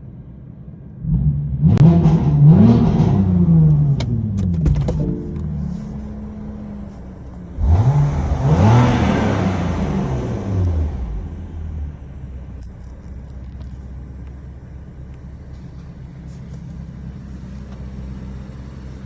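BMW M4 Competition's twin-turbo straight-six revved twice through its exhaust: about a second in the revs climb fast and fall back, with a few sharp pops as they drop, and again a little before the halfway point. Between and after the revs it settles to a steady low idle.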